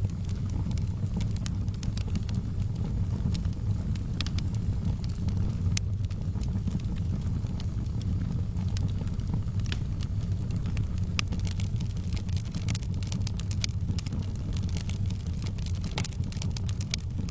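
Wood fire burning in a fireplace: sharp irregular crackles and pops over a steady low rumble, the crackles growing more frequent in the second half.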